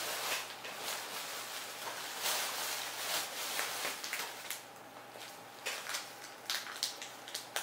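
Child chewing a crunchy wafer biscuit: a run of small, irregular crunches and clicks.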